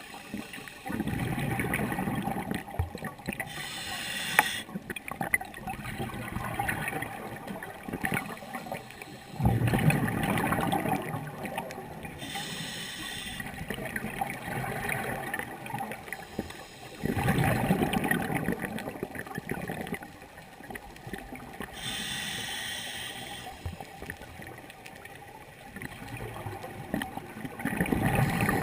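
Scuba diver breathing through a demand regulator underwater. Each short inhale hisses, and each longer exhale follows as a rush of bubbles; about four breaths come roughly eight seconds apart.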